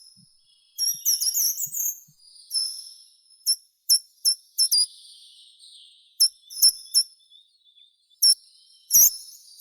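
Songbirds singing: short, high, quick chirps and whistled notes, a rapid cluster about a second in, then single sharp notes spread out, the loudest one near the end.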